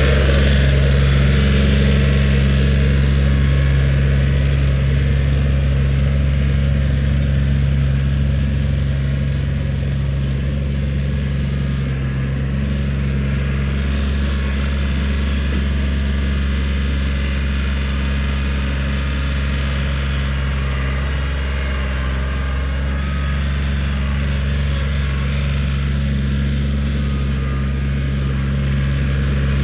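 Kioti 4010 tractor's diesel engine running steadily while working its backhoe.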